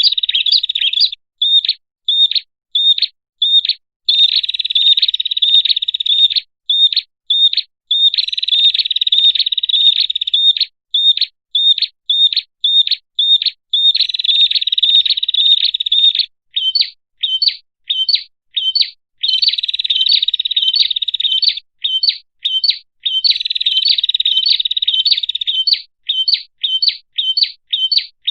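Prinia (prenjak) lure call: high-pitched chattering trills lasting a couple of seconds, alternating with runs of separate sharp chirps at about two or three a second, repeating over and over.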